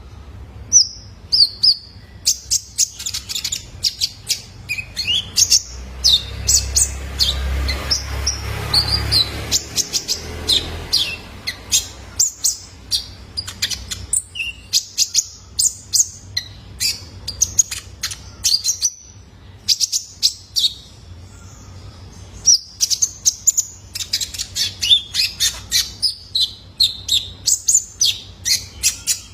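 Young male konin (kolibri ninja) sunbird singing: a fast, busy run of sharp, high chirps and twitters, with short pauses between phrases. A low rumble sits under the chirps for a few seconds in the middle.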